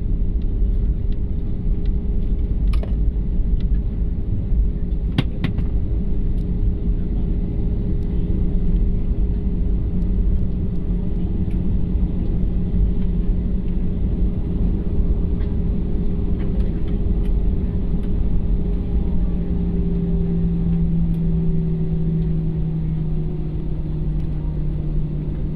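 Airliner cabin noise: a steady low rumble of engines and airflow with a steady engine hum that slowly falls in pitch over the last few seconds. A couple of sharp clicks come a few seconds in.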